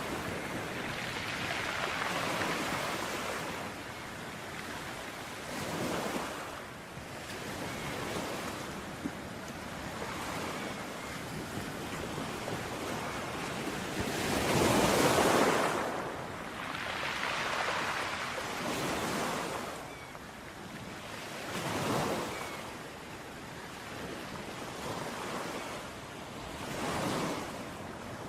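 Ocean waves breaking on a beach, one surge after another every few seconds, the largest about halfway through, with a steady wash of surf between them.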